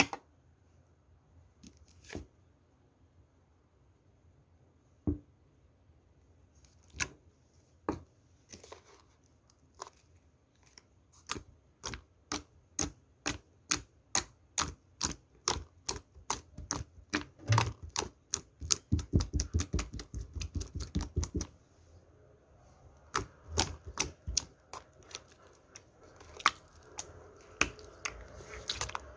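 Slime being pressed and worked by hand, giving sharp clicking pops: a few scattered ones at first, then a fast run of several a second through the middle, and more clicks with softer squishing near the end.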